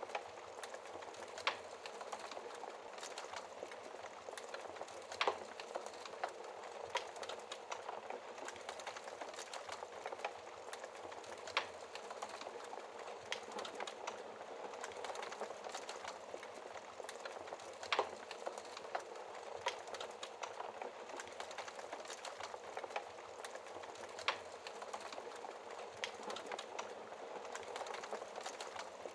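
Wood fire burning in a fireplace: a steady soft hiss with sharp crackles and pops every second or two, a few of them louder snaps.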